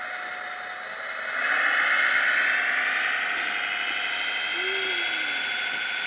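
Whine of a radio-controlled scale model's small electric motor and gears, rising in pitch and growing louder about a second in, then holding steady.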